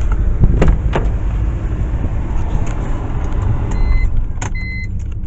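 Wind rumbling against the microphone. Near the end, a car's warning chime starts beeping, one short high beep about every 0.7 s: the reminder that the key is still in the ignition.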